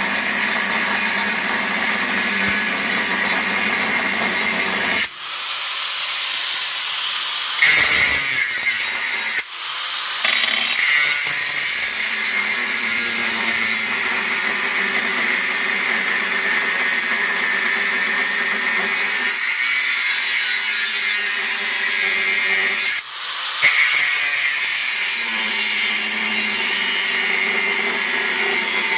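Power tool working steel plate, running steadily with a few brief pauses.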